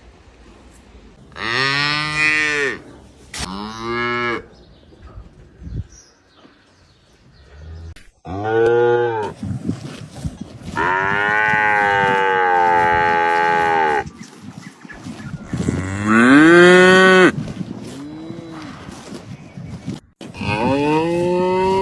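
Cattle mooing: about six loud calls, each rising then falling in pitch, the longest held for about three seconds in the middle.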